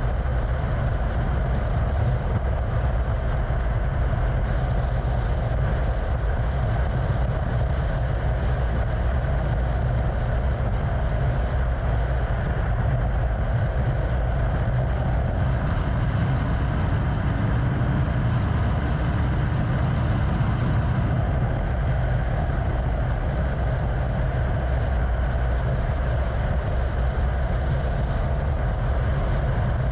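Yamaha FZ6 600cc motorcycle running at a steady cruising speed, its engine mixed with a heavy low wind rumble on the helmet-mounted action camera's microphone.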